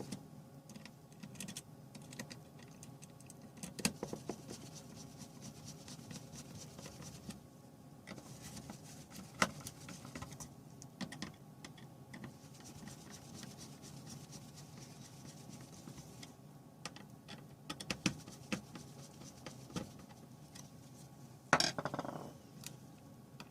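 Scattered light clicks and taps of small hard parts being handled, with a louder short clatter near the end. A faint steady hum runs underneath.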